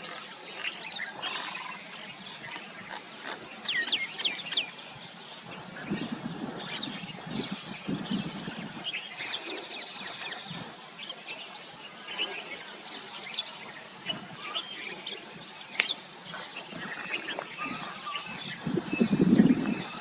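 Birds calling in short sharp chirps and whistles over a steady high-pitched insect trill, with a few low rumbling bursts, the loudest near the end.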